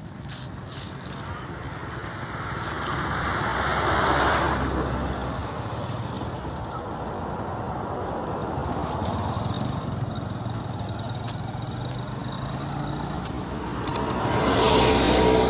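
Road traffic noise: a steady rumble of vehicles, with two louder swells, about four seconds in and again near the end, as vehicles pass close by.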